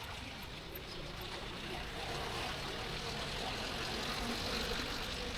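Steady road noise heard from a moving motorbike: engine, tyres and wind rushing past, a little louder from about two seconds in.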